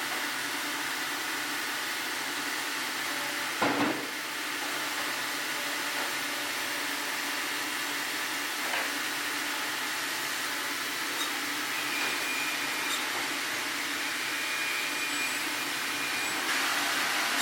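Sawmill running steadily while sawing a Formosan sweetgum log, with a single sharp knock about four seconds in.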